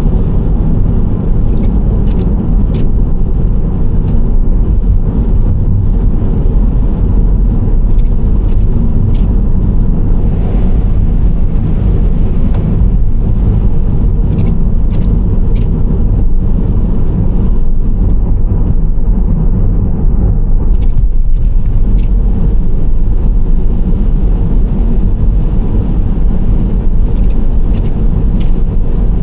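Steady road and engine noise of a Nissan Serena C25 minivan cruising: a dense, even low rumble with faint light ticks every few seconds.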